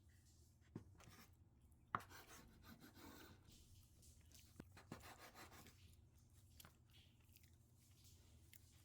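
Faint handling sounds in a quiet room: a few light knocks, the loudest about two seconds in, with brief scratchy rustling between them.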